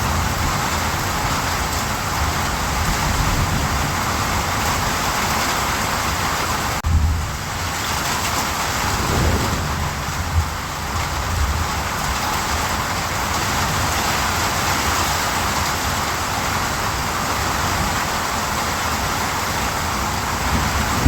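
Steady rain falling in an even hiss, with low thunder rumbling faintly around a third of the way in.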